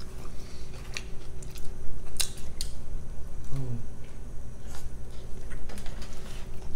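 Mouth sounds of a person biting into and chewing a cheeseburger: wet clicks and smacks at uneven intervals, with a short hummed sound about three and a half seconds in.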